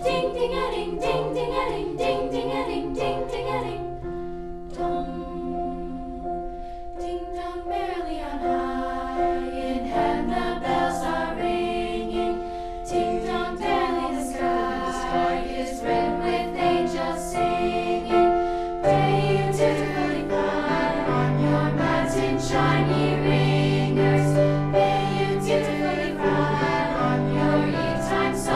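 Choir singing a holiday song in held, multi-part chords with no clear words; the sound grows fuller and louder about two-thirds of the way through, with a low sustained bass underneath.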